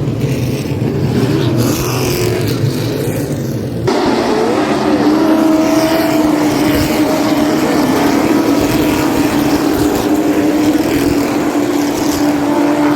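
A field of street stock race cars running laps, several engines at once, their pitch rising and falling as cars go by. About four seconds in, the sound changes abruptly to a steadier, continuous engine drone.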